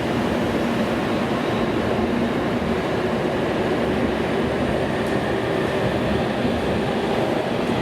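Steady rumble of a Tokaido Shinkansen train at the station platform, an even noise with a faint low hum running through it.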